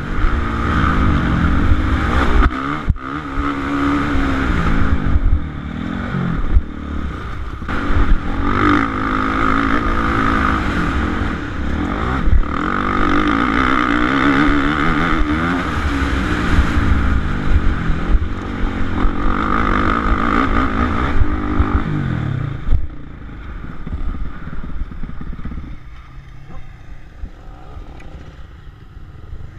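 A Suzuki RM-Z450 four-stroke single-cylinder motocross bike engine running hard, its pitch rising and falling over and over as it is revved and shifted, with a few sharp knocks mixed in. About three-quarters of the way through, the engine drops to a much quieter, lower running.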